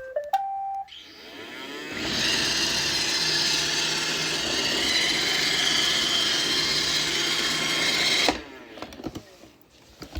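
iRobot Roomba 694 robot vacuum starting up: a short rising tune of beeps, then its vacuum motor and brushes spin up over about a second and run steadily for about six seconds before cutting off suddenly.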